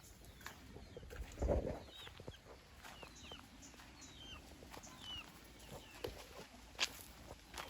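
Free-range country chickens clucking, with many short high chirps and scattered sharp clicks. There is a louder low thump about a second and a half in.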